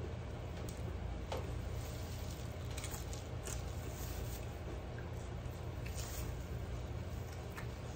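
Eating sounds: chewing and small wet mouth clicks and smacks as food is eaten by hand, over a steady low hum.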